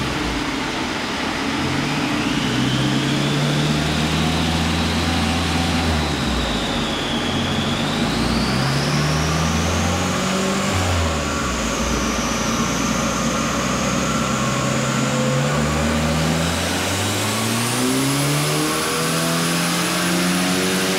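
Car engine being run up on a chassis dynamometer, its note climbing and falling back several times as it works through the revs. Over it, a high whine climbs steadily with road speed.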